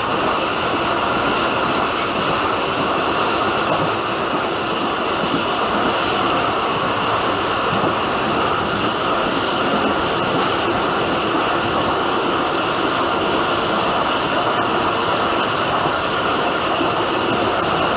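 Pak Business Express passenger train running at high speed, heard from its rear coach: a steady, even rush of wheel-on-rail running noise with no distinct beat.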